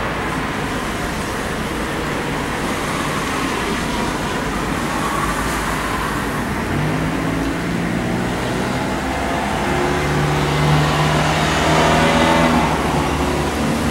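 A car running, with a steady low rumble of engine and road noise. About halfway through a humming pitched tone joins it and grows louder towards the end.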